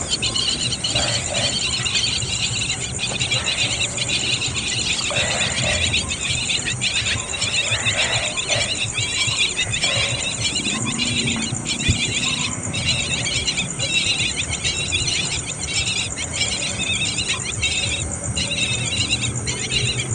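Young birds cheeping rapidly and continuously in high-pitched calls, broken by short pauses: chicks begging for food. A steady high hiss runs underneath.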